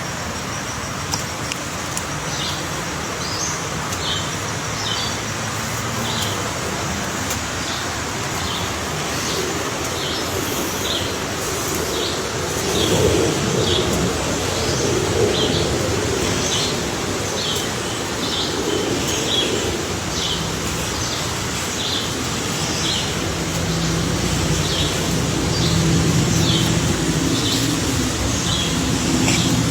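A bird calling repeatedly with short, high chirps, about one or two a second, over steady background noise and a low hum that grows louder in the second half.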